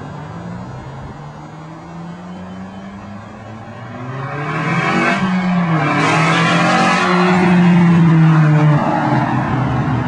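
Nissan Sentra Spec-V's 2.5-litre four-cylinder engine running with its muffler unbolted. It holds steady, then revs up about four seconds in and stays loud at higher revs.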